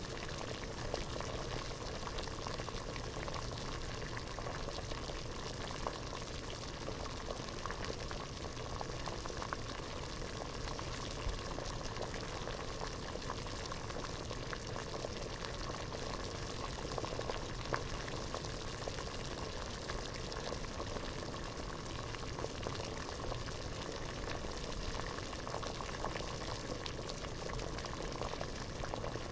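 Water boiling hard in a pot: a steady bubbling with many small pops and ticks.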